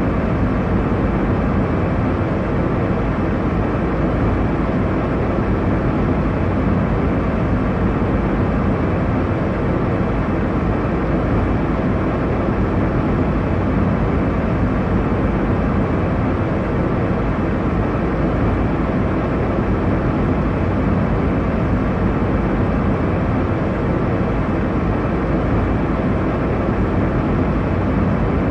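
Steady airliner cabin noise in flight: a constant low rumble and rush of engine and airflow noise, with no changes.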